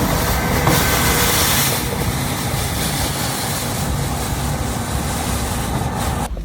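A vehicle engine running steadily under a constant hiss of noise, cutting off suddenly near the end.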